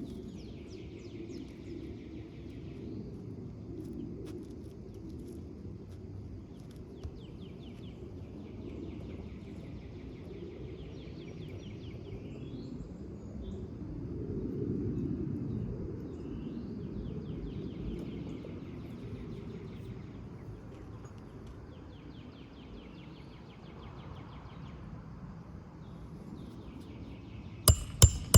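Steady outdoor rumble with a bird singing a dry trill every few seconds, each about two to three seconds long. Near the end comes a quick run of loud, sharp metallic knocks, about three a second, as roofing nails are driven into a new shingle.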